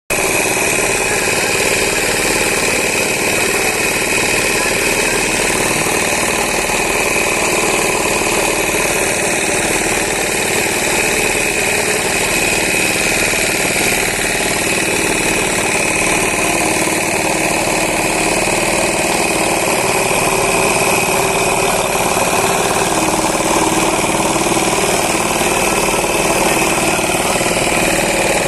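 Concrete pump's diesel engine running steadily.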